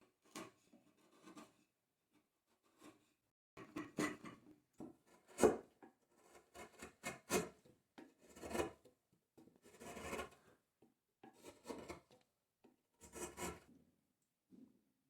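A hand woodworking tool scraping on wood in about a dozen separate, irregularly spaced strokes, the loudest about five and a half seconds in.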